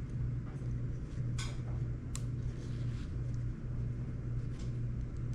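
A steady low hum, with two light clicks about one and a half and two seconds in from small parts being handled.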